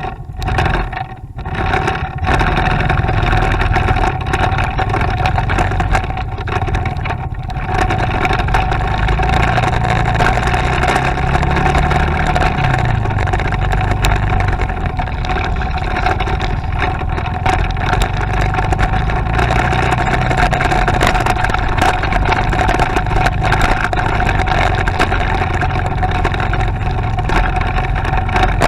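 Motorcycle engine running while under way, with a steady whine over it and the engine pitch rising and falling a little near the middle.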